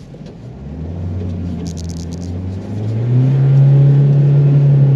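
Renault Master van's diesel engine revving hard under load, heard from inside the cab: the drone builds from about half a second in, steps up in pitch about three seconds in and holds loud. A brief patch of clicking comes about two seconds in.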